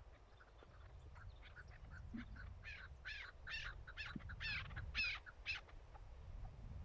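Chukar partridge calling: a run of repeated clucking notes that starts faint and grows louder, about two to three a second, breaking off about a second before the end, over a low steady rumble.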